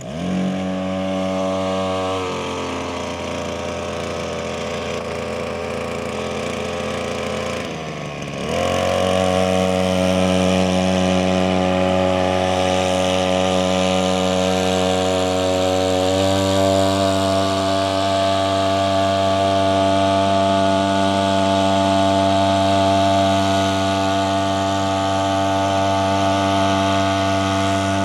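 Small two-stroke Chinese brush-cutter engine driving a homemade outboard motor. It catches and runs, drops to a lower speed about two seconds in and sags as if about to stall around eight seconds. It then picks up again and runs steadily at higher speed.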